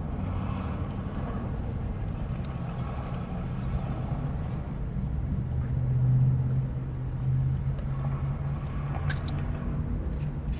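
Steady low vehicle rumble that swells for a moment about six seconds in, with scattered light clicks and taps of plastic takeout containers being handled.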